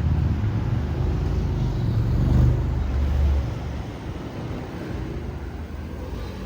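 A motor vehicle's engine passing close by with a low rumble, loudest about two and a half seconds in and fading away after about three and a half seconds, over steady street ambience.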